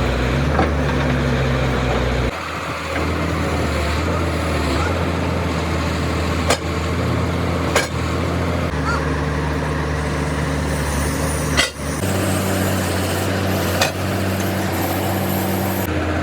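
Excavator's heavy diesel engine running steadily, its note shifting a few times, with four sharp metal clanks.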